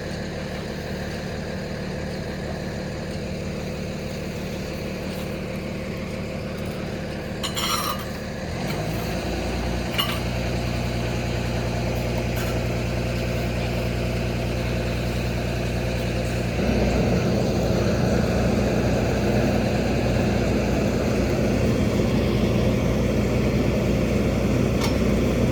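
Garbage truck's diesel engine running steadily. It picks up speed about eight seconds in and runs louder and rougher from about sixteen seconds in, as when the engine is raised to drive the hydraulics. A couple of short metallic clinks come near the start.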